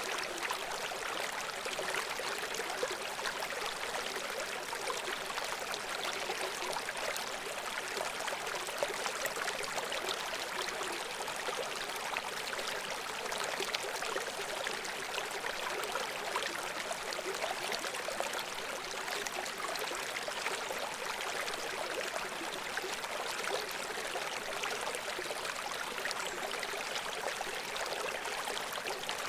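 Babbling brook: shallow water flowing and gurgling steadily over stones, a continuous rushing with fine trickling detail.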